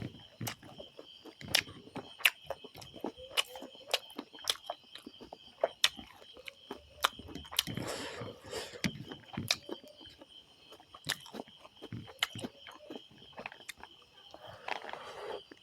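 Close-up eating sounds: rapid wet clicks and crunches of chewing and biting rice and curry, with a steady high insect trill behind them.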